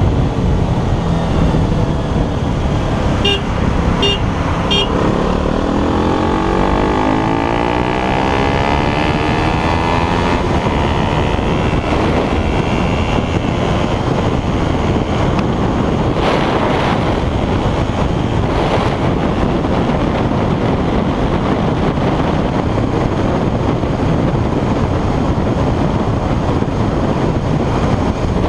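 A single-cylinder 200 cc motorcycle accelerating hard, its engine note rising steadily for several seconds, over heavy wind and road rush. Three short horn toots come just before the engine starts to climb.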